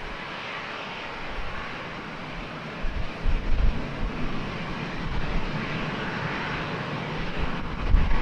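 Jet airliner engines, most likely an Airbus A320 landing, with a steady hiss and a deep rumble that grows louder from about three seconds in.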